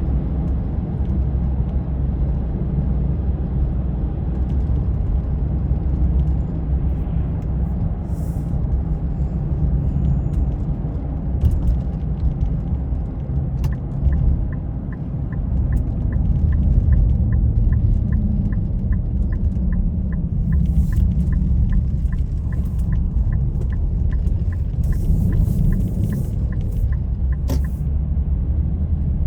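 Steady low rumble of a car driving. About halfway through, a light regular ticking starts, about three ticks a second, and stops shortly before the end.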